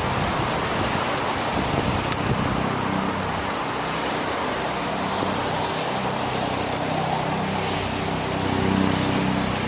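Road traffic on wet city streets: a steady hiss of tyres and wind with the low hum of a car engine running close by, swelling slightly near the end.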